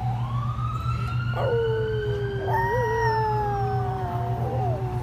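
A siren wailing in slow rising and falling glides while dogs howl along with it, the howls coming in about one and a half seconds in, over a steady low hum. The sound cuts off abruptly at the end.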